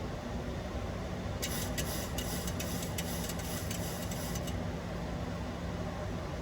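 Steady flight-deck noise of a Boeing 737-800 on approach: a constant rush of airflow and engine drone with a low hum underneath. From about a second and a half in to about four and a half seconds in, a run of irregular high crackling clicks lies over it.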